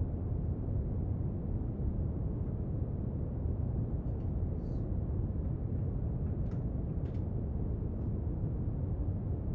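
Steady brown noise, a deep even hiss strongest in the low end, with a few faint light clicks about halfway through.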